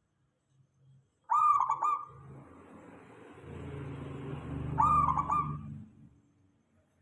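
Zebra dove (perkutut) giving two short, loud cooing calls about three and a half seconds apart, with a low rumble swelling and fading between them.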